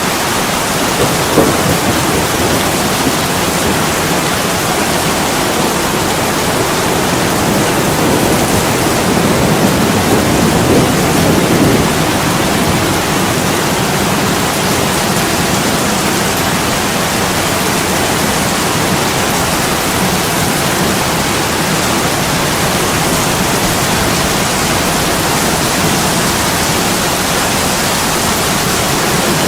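Steady heavy rain pouring down, a dense even hiss, with a low rumble swelling about ten seconds in.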